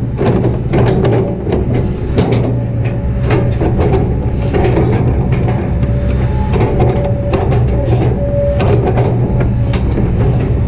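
Kobelco SK200-8 hydraulic excavator's diesel engine running steadily under work, with repeated knocks and clatters from the digging work and a thin whine that comes and goes.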